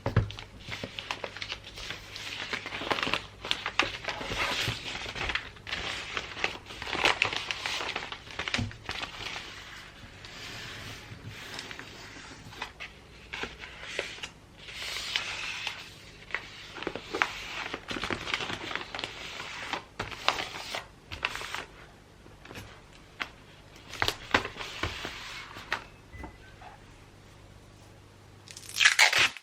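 Wrapping paper crinkling and rustling as it is folded and handled around a gift, with scattered light taps and clicks, and a louder burst of noise near the end.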